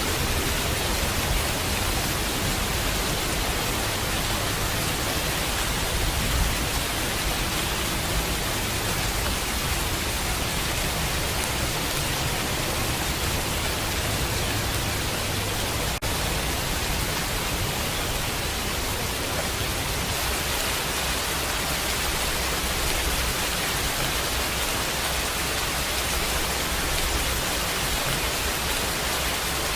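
Steady heavy rain falling, an even hiss that holds at the same level throughout.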